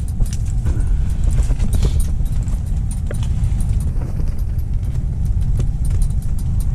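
Strong wind buffeting the microphone, a steady low rumble, with scattered light clicks and ticks over it.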